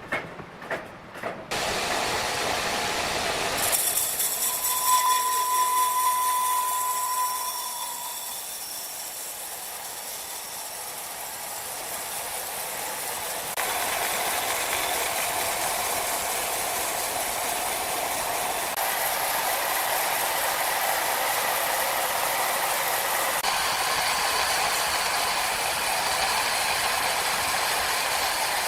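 Sawmill saw machinery running, a steady hissing noise that changes abruptly several times. A few sharp clicks come at the very start, and a thin steady whine sounds for a few seconds starting about five seconds in.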